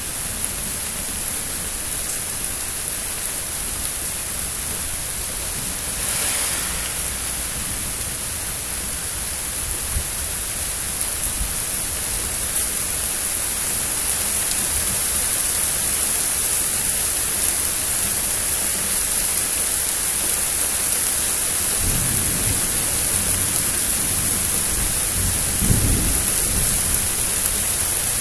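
Steady rain hiss from a thunderstorm, with two low rumbles of thunder about three-quarters of the way through and near the end.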